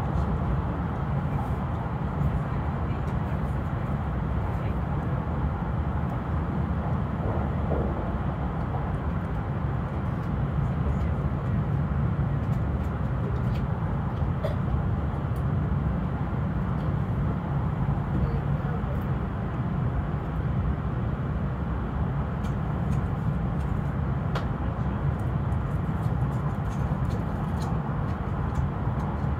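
Steady low rumble of an E5 series Shinkansen train in motion, heard inside the passenger car, with faint scattered clicks; the train is running at reduced speed.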